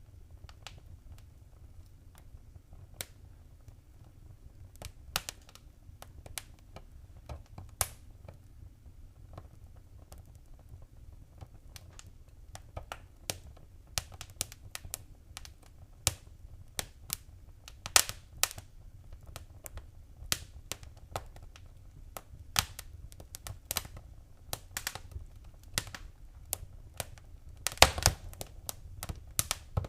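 Wood fire crackling and popping: irregular sharp pops over a steady low rumble, sparse at first and coming thicker about halfway in, with a quick cluster of louder pops near the end.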